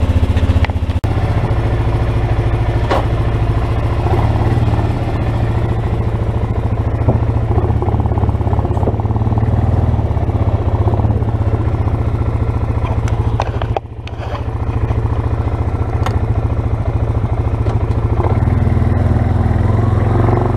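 2006 Suzuki Eiger 400 ATV's single-cylinder four-stroke engine idling steadily just after a cold start, with the choke partly on.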